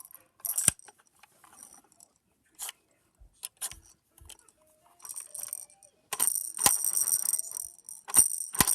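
Hard toys being handled: scattered sharp clicks and knocks, then a dense ratcheting rattle from about six seconds in to near the end.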